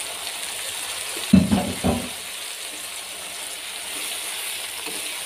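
Hot oil and masala sizzling in a wok as sliced eggplant is tossed in and stirred with a spoon, a steady hiss with two short thumps about a second and a half and two seconds in.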